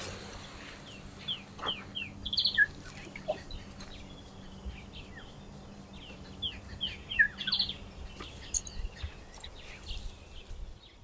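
A bird singing a short song of quick falling chirps, twice, the second phrase about five seconds after the first, over a faint steady low hum.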